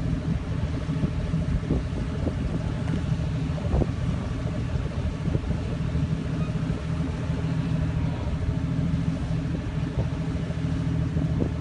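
4x4 vehicle engine idling steadily with a low hum.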